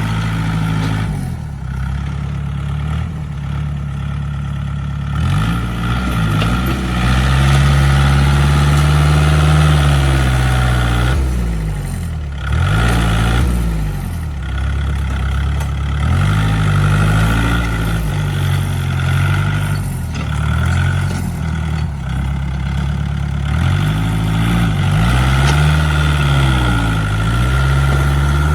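Tractor engine running under changing load, its pitch rising and falling again and again as the engine speeds up and slows down while clearing.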